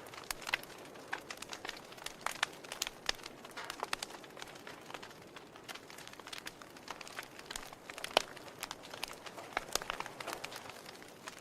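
Wood fire burning in a fireplace, logs crackling with irregular sharp pops and snaps over a soft steady hiss; the loudest pop comes about eight seconds in.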